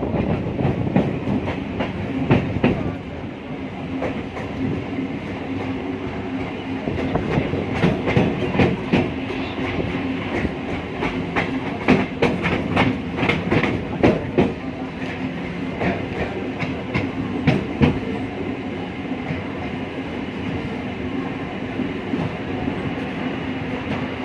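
Passenger train running, its wheels clattering over the rail joints with a steady hum underneath; the clatter comes thickest in the middle stretch.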